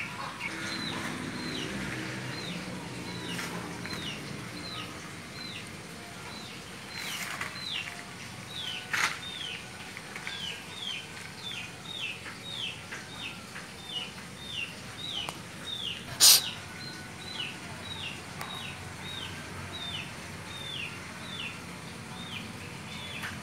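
A bird calling over and over, a short downward-slurred chirp about twice a second. A few sharp clicks stand out, the loudest about two-thirds of the way through.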